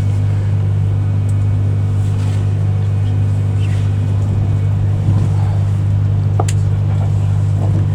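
Cabin noise inside a Class 390 Pendolino electric train: a steady low hum that does not change, with one sharp click about six and a half seconds in.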